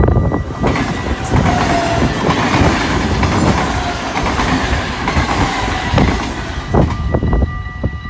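Dutch yellow-and-blue double-deck electric passenger train passing over a level crossing: a rush of wheel and rail noise lasting about six seconds, with a few sharp clacks of wheels over rail joints near the end as it fades. The crossing's warning bell rings steadily underneath, plain again once the train has gone.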